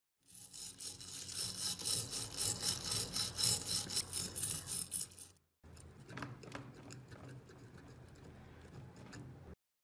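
Quick rhythmic hand scrubbing strokes on a rusty metal part. After a short break about five seconds in, a quieter stretch of rubbing follows with a few sharp clicks.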